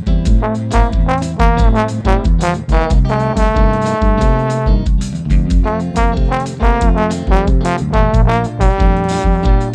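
Live band music led by a trombone playing a melody of held and sliding notes, over bass and drums with a steady beat.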